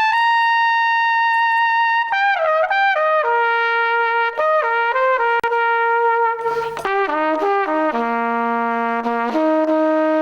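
Solo trumpet playing a slow melody, long held notes joined by quick runs of notes, with a brief break about six and a half seconds in.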